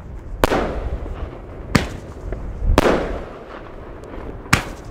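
Eight-shot fireworks shell tube firing: four sharp bangs one to two seconds apart, each trailing off over about half a second.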